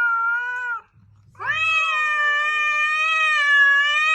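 A cat meowing: a short meow, then after a brief pause a long, drawn-out meow held at a steady pitch.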